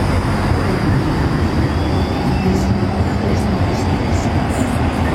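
Alicante tram (TRAM d'Alacant) running, a steady low rumble of wheels on the rails with a constant motor hum.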